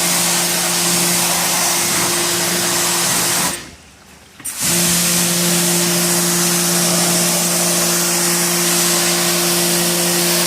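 Electric cleaning machine motor running with a steady hum and hiss. It cuts out for about a second a little before the middle, then starts again and runs on.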